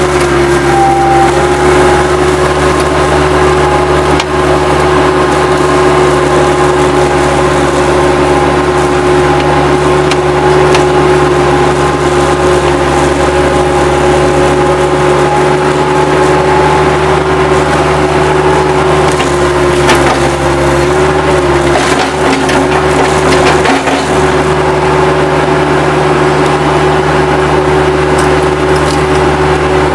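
Bobcat 763 skid steer's diesel engine running steadily under load, with wood debris cracking and snapping now and then as it is grabbed and crushed, most often in the last third.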